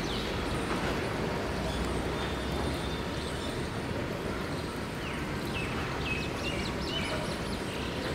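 Steady rumble of a passenger train's coaches rolling away along the track. Birds chirp in a quick series of short falling calls from about five seconds in.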